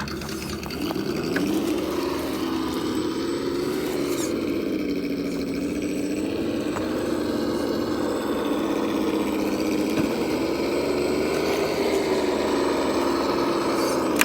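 Simulated engine sound from an RC crawler's onboard sound module, a steady engine-like drone whose pitch rises and falls as the throttle is worked.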